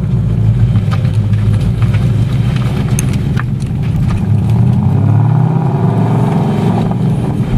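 Ford Mustang GT's 5.0 Coyote V8 running through an MRT Interceptor cat-back exhaust with an H-pipe, giving a steady deep rumble that climbs in pitch about halfway through as the engine picks up revs.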